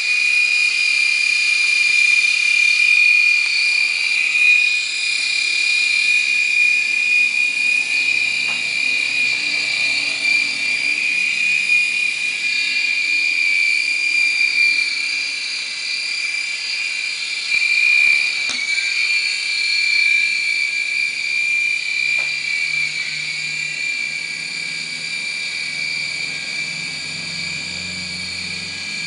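Micro toy helicopter's small electric motors and rotors running with a steady high-pitched whine, easing slightly in loudness toward the end. The helicopter no longer lifts off: one of its motors seems to have failed.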